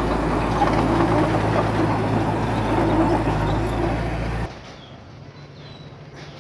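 Heavy earth-moving machinery engine running steadily, then cutting off abruptly about four and a half seconds in to a much quieter, faint engine hum.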